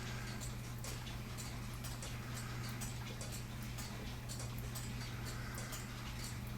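Mechanical clocks ticking: light clicks at uneven spacing, several a second, over a steady low hum.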